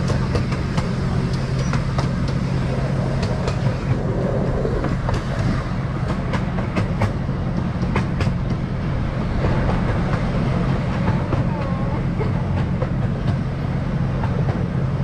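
Hermann Park Railroad miniature train running along its track, heard from a passenger car: a steady low rumble with the wheels clicking irregularly over the rail joints.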